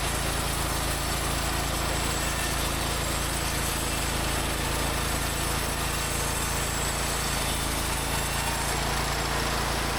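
Hud-Son HFE-33 portable bandsaw mill running steadily: its gas engine and band blade.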